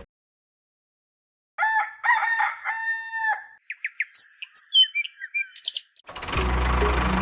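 Silence, then a rooster crowing once, about two seconds long, followed by a run of short, quick bird chirps and whistles. The dense background sound from before returns near the end.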